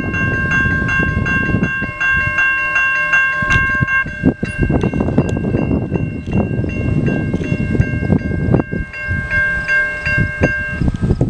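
Railroad crossing signal bells ringing in a rapid, even rhythm over the low rumble and clatter of a CN freight train's wheels on the rails. The bells stop near the end as the signal shuts off once the train clears the circuit.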